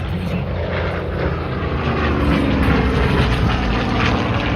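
Propeller-driven warbird aircraft flying past. The engine drone swells and then eases, its pitch sliding down as they go by.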